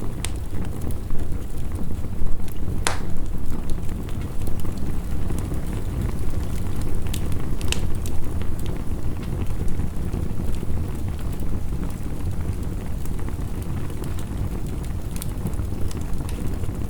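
Wood fire crackling, with a sharp pop every few seconds, over a steady low rush of heavy rain.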